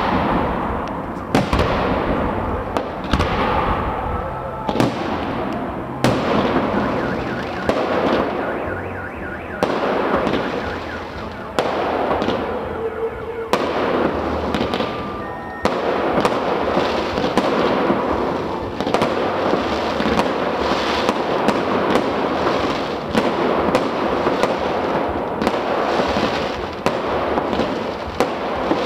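Aerial fireworks bursting overhead: a rapid, irregular series of bangs with crackling between them.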